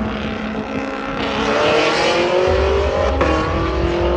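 Car engine accelerating hard in a roll race, its pitch climbing with gear changes about two and a half and three seconds in, a deep rumble coming in at the first.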